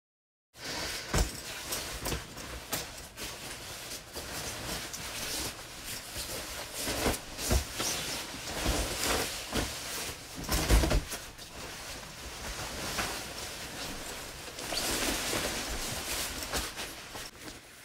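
Clothing rustling and close handling noise as a boy changes into a jacket, with scattered clicks and a few dull thumps.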